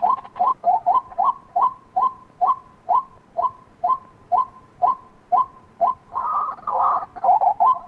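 White-breasted waterhen calling: a steady series of short, repeated 'kwak' notes, about two a second. About six seconds in, the calls run together into a louder, denser stretch, then break back into quick single notes.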